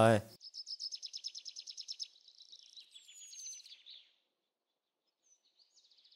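Small songbird singing a fast trill of high, evenly spaced chirps, about nine a second for a second and a half, followed by a few softer chirps and a short falling whistle.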